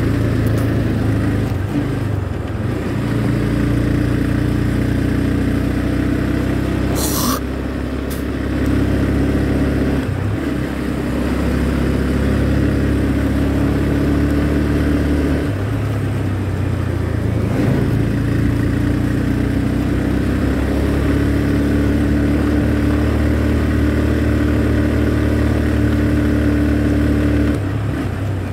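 Motorcycle engine running while riding, its note steady but shifting and dipping briefly several times through the stretch. A short sharp sound cuts in about seven seconds in.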